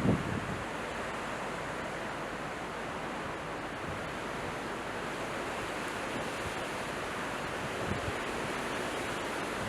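Strong, gusty wind blowing steadily, with a low buffeting thump of wind on the microphone at the start and again about eight seconds in.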